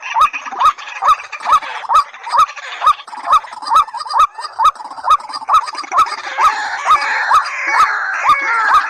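White-breasted waterhen calling in a fast, monotonous series of short rising notes, about two a second, each with a sharp click. From about six seconds in, more overlapping calls join the series.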